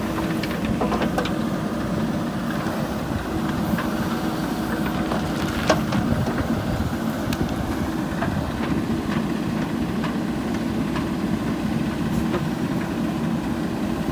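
Heavy diesel earth-moving machine engine running steadily, with scattered sharp knocks and clanks. The sharpest knock comes just under halfway through.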